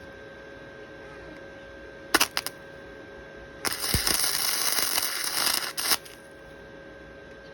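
Arc welding on a 1998 Kawasaki KX250 motorcycle frame. A couple of brief crackling tacks come about two seconds in, then a steady crackling bead runs for a little over two seconds and stops about six seconds in. A faint steady hum sits underneath.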